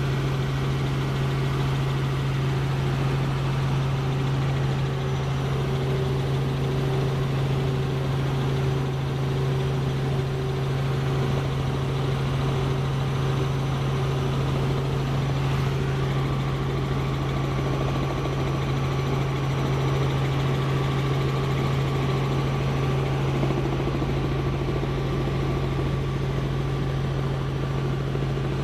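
Helicopter in steady flight: a constant engine and rotor drone with a strong, unchanging low hum. A faint higher tone joins about halfway through.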